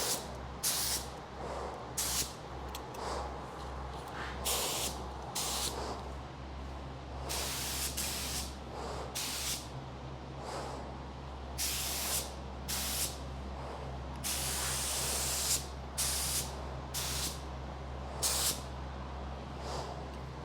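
Spray gun spraying epoxy primer in short bursts of hiss, roughly one a second, with one longer pass of over a second about two-thirds through, over a steady low hum.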